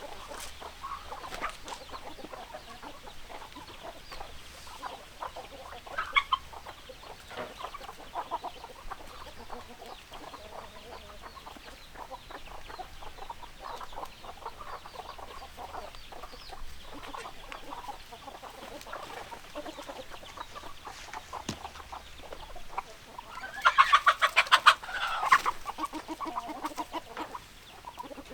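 Chickens clucking, with scattered short calls throughout and a louder run of rapid calls near the end.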